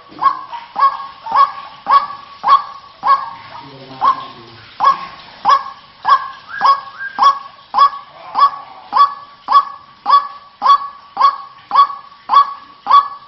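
White-breasted waterhen (ruak-ruak) calling: a bird-lure recording of loud, harsh notes repeated at about two a second, with a brief lull about four seconds in.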